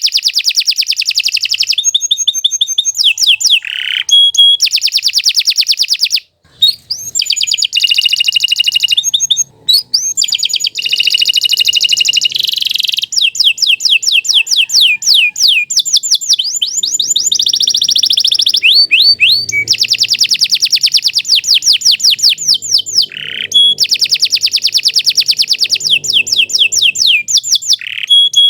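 Domestic canary singing a long, vigorous song of rapid trills: each phrase is a fast run of repeated high notes, and the phrase changes every second or two. The song breaks off briefly about six seconds in and again near ten seconds.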